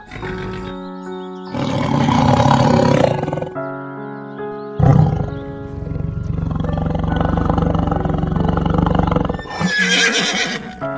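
Background music with animal calls laid over it: a loud call about two seconds in, a long, low call lasting about five seconds from the middle, and a shorter, higher call near the end.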